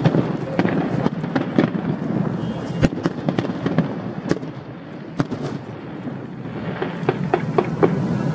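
Aerial fireworks going off in a rapid, irregular string of sharp bangs and crackles over a continuous rumble. The bangs thin out briefly in the middle and grow dense again near the end.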